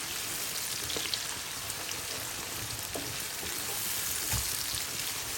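Koi fish (climbing perch) sizzling and crackling in hot oil in a pan as it is fried for a bhuna, with a low thump about four seconds in.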